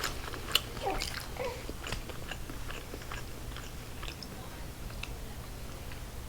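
Close-miked chewing and biting of chicken wings, with small wet mouth clicks and an occasional crunch.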